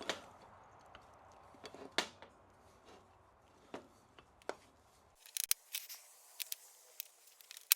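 Scattered small clicks and taps of hand tools and parts being handled at a freshly installed axle U-joint, a few at first and then a quicker run of sharp clicks near the end.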